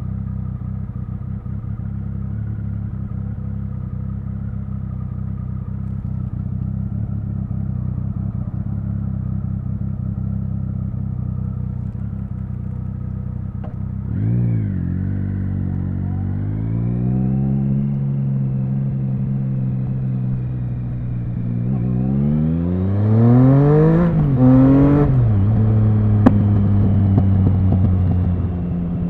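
Triumph Speed Triple 1050's inline three-cylinder engine running steadily at low revs for the first half. About fourteen seconds in the pitch rises and falls briefly, then holds steady. Around twenty-two seconds in it revs up twice with a drop between, as with a gear change, before settling back to steady running.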